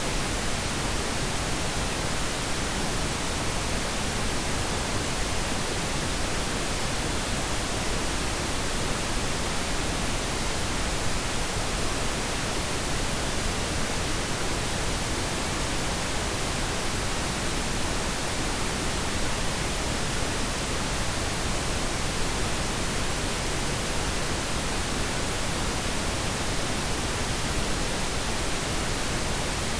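Steady pink noise: an even, unchanging hiss spread across all pitches, softer in the highs than white noise.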